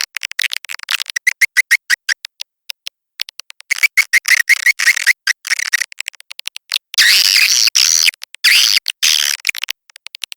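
Swiftlet lure recording of edible-nest swiftlet calls: rapid trains of dry clicks and quick repeated twittering chirps, chopped into short pulses with dead silence between them. From about seven seconds in the bursts turn into longer, denser chattering calls.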